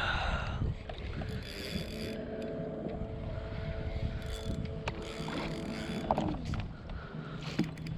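Spinning reel being cranked in a steady whir while fighting a hooked largemouth bass. The whir stops about six seconds in, over water and wind noise from the kayak.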